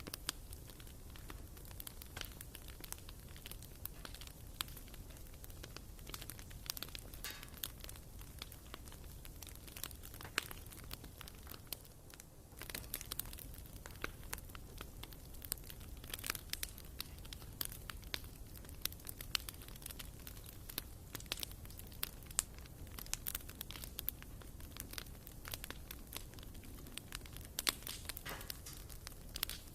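Wood fire burning in a fireplace, crackling with frequent irregular sharp pops and snaps over a steady low background noise.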